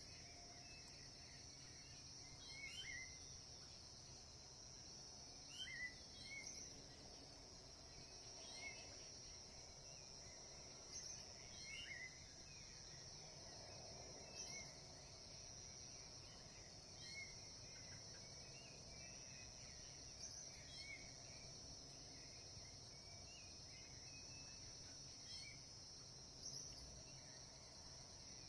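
Faint bird calls, short gliding chirps repeated every two to three seconds, over a steady high-pitched drone of insects.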